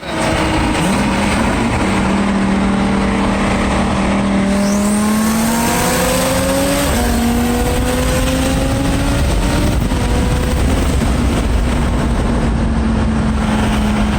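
Twin-turbo Lamborghini Huracán V10 under hard acceleration, the engine note climbing slowly and dropping at an upshift about seven seconds in, then climbing again and levelling off, over wind and road noise.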